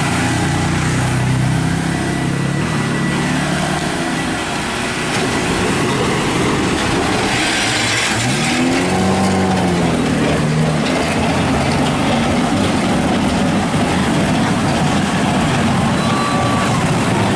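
Motor vehicle engines running amid loud continuous noise, with one engine's pitch rising and falling about halfway through.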